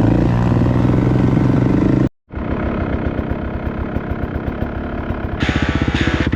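Off-road vehicle engine running, with a brief cut to silence about two seconds in; after it an engine runs with a fast, even firing pulse that grows louder near the end.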